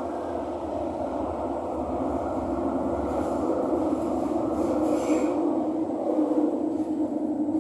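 Thomson–East Coast Line metro train running between stations, heard from inside the car: a steady rumble of wheels and running gear with a hum that grows a little stronger toward the end.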